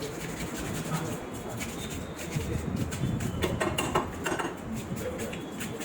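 Knife working on a parrotfish on a cutting board: scraping and irregular sharp knocks of the blade against the board, over a low background murmur.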